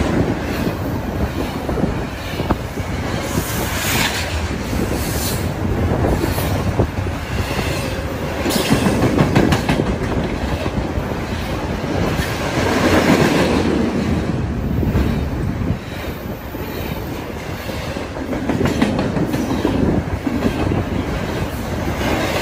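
BNSF double-stack container train's well cars rolling past close by: a continuous rumble of steel wheels on rail with clickety-clack, swelling and easing every few seconds as the cars go by.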